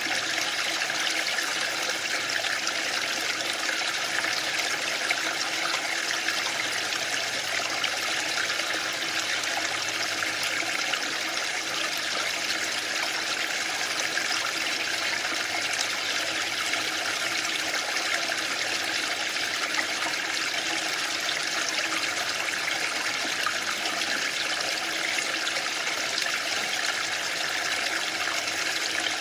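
Waterfall: falling water in a steady, hissing rush with little deep rumble and no surges or breaks.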